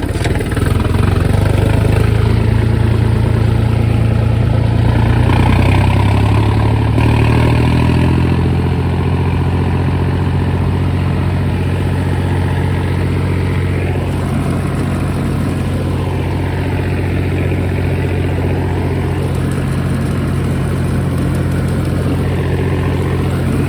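Tractor diesel engine running steadily under load while driving a straw reaper, with a small shift in engine pitch about seven seconds in.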